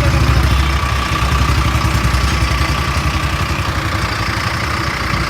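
Tractor diesel engine idling steadily with a fast, even chugging beat.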